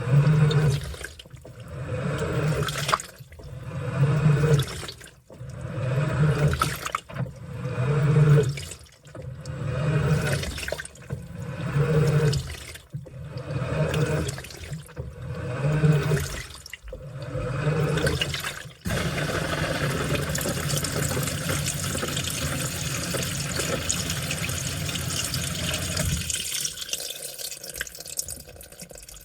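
Washing machine mid-wash: water and laundry sloshing in the turning drum, one heavy slosh about every two seconds. About two-thirds of the way through the sloshing stops and a steady rush of water takes over, cutting off near the end to leave a few drips.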